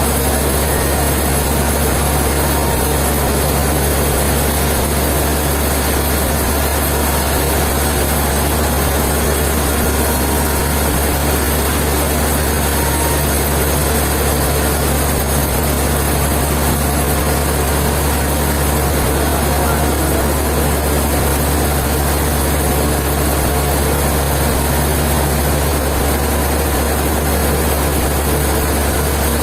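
Sawmill machinery running steadily, a deep even hum with a constant wash of noise over it and no change in speed or load.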